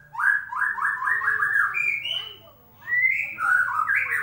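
White-rumped shama (murai batu) song used as a lure to get a silent shama to sing. It is a fast run of about five rising whistled notes, then after a short pause higher, varied whistled phrases.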